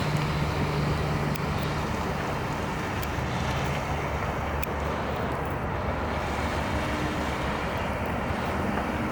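2016 Ford F-150 pickup's engine idling steadily.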